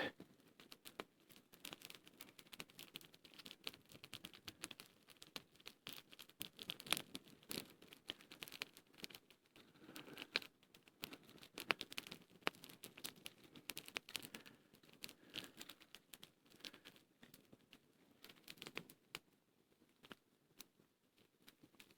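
Small campfire crackling faintly as a piece of birch bark burns, with many irregular sharp pops and snaps.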